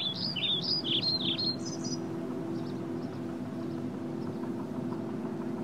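A bird singing a quick run of rising and falling chirps for about the first two seconds, then fainter chirps, over the steady rush of a small stream cascading over rocks.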